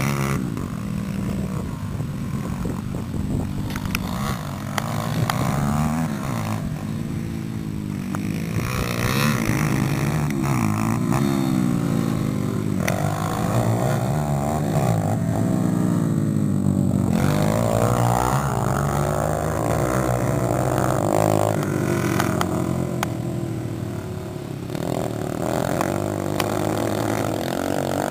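Small dirt bike engine running and being revved, its pitch rising and falling over and over as it is ridden.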